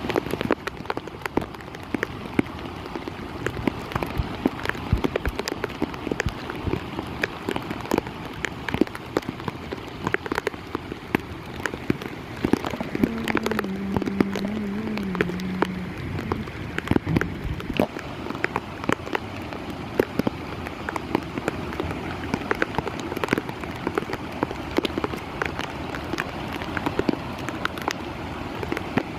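Heavy monsoon rain falling steadily, a dense patter of sharp drop hits over a constant hiss. A short, wavering low tone sounds about halfway through.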